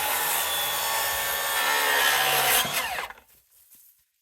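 Power saw cutting through a wooden floor joist to trim it to length. Its whine falls away about three seconds in as the blade winds down.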